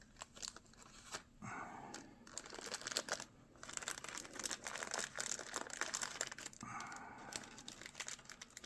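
A sealed plastic baggie crinkling with irregular crackles as it is handled.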